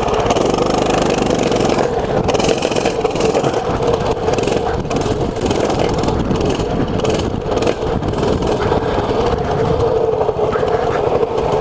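Small mini bike engine running at a fairly steady pitch while being ridden over rough ground, with noise and knocks from the ride throughout.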